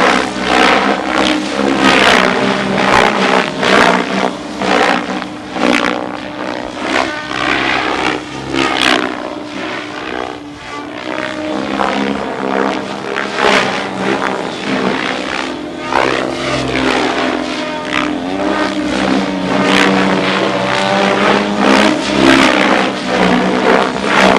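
RC helicopter rotors and motor during 3D aerobatics: a loud whooshing blade noise that surges and sweeps up and down in pitch as the helicopter flips and passes, over a steady drone.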